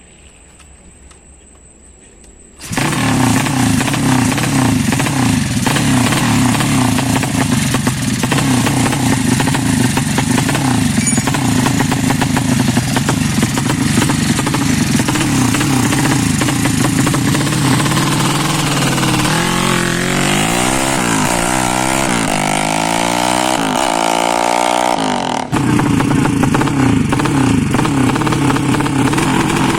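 A Yamaha Jupiter single-cylinder four-stroke motorcycle engine, bored up to 200 cc, starts abruptly about three seconds in and runs loudly while it is being tuned. Towards the end it is revved up and down several times, then settles back to a steady run.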